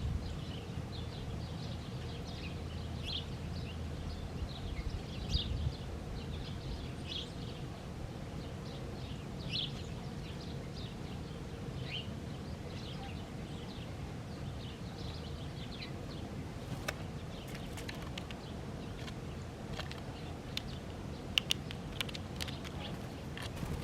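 Small birds chirping, with many short high calls scattered throughout, over a low steady rumble; a few sharp clicks come in the second half.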